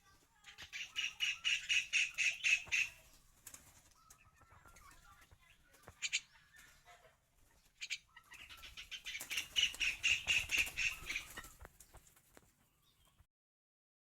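A pet bird making two bursts of rapid, evenly repeated pulses lasting two to three seconds each, with a few single sharp chirps between. The sound cuts off suddenly near the end.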